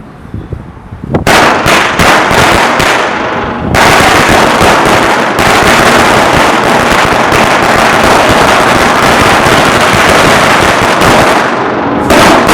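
A White Horse brand firecracker mat going off. It starts about a second in as separate rapid bangs, turns into a dense, unbroken string of bangs a few seconds later, and runs like that until near the end.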